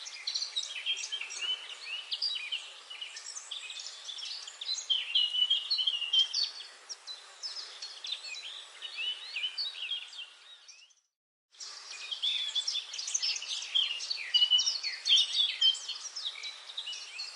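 Dense chorus of many small birds chirping and trilling over a faint hiss, which cuts out completely for about half a second partway through and then resumes.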